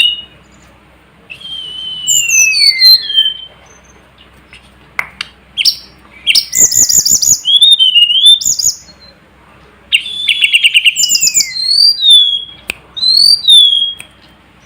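A tledekan gunung (mountain sulingan) singing in a song-training recording. It gives three phrases of high whistled notes, falling glides and fast trills, separated by short pauses.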